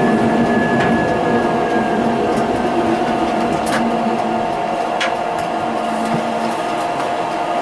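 Electric tram running, heard from on board: a steady whine from the traction drive over rolling wheel-on-rail noise, with a few sharp clicks. The lower tone fades out about six seconds in.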